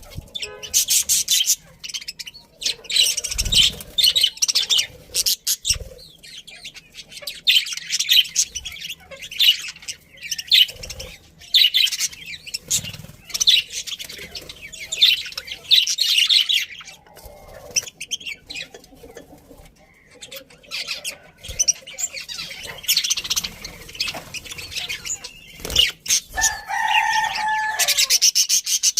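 A colony of budgerigars chattering and chirping busily in fast, high twittering runs, with a few soft low thumps, and a lower, longer call near the end.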